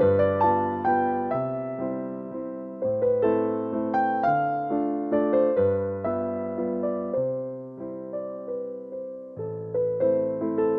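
Soft, slow piano music, notes gently played and left to ring.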